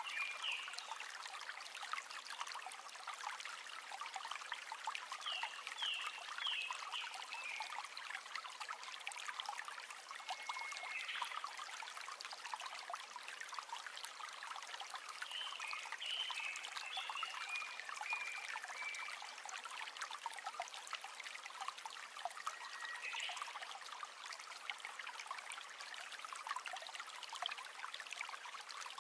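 River water trickling and babbling over stones, a steady rush of small splashes. Short high chirps sound several times over it.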